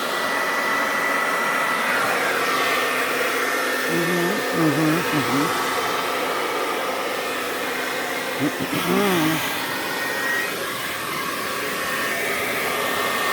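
Remington blow-dryer running steadily, a rush of air with a thin high whine, blowing acrylic paint across a canvas in a paint-pour blowout. A voice is heard briefly twice over it.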